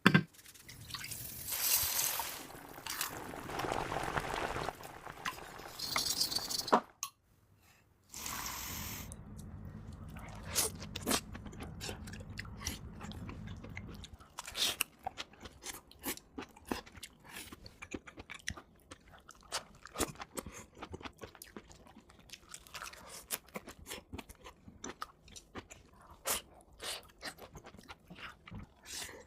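Close-miked eating sounds played at double speed: crunchy food being bitten and chewed in quick crunching clicks. The first several seconds hold a steady hiss, with a brief drop-out about seven seconds in.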